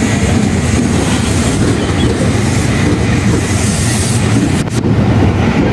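JR 205 series electric multiple unit passing close by, a loud, steady rumble and clatter of its wheels on the rails.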